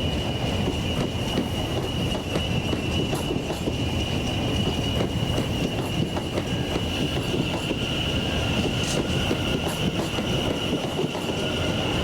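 A train running on the rails with a steady rumble and a continuous high wheel squeal, with occasional clicks.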